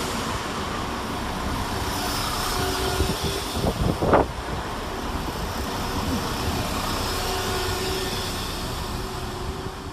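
Diesel multiple unit train running at the station platform, a steady engine and rail rumble with a brief louder clatter and squeal about four seconds in.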